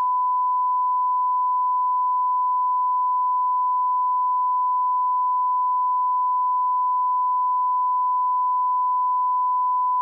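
Steady 1 kHz sine line-up tone at −18 dBFS: a continuous, unwavering pure beep used as a reference level for calibrating audio.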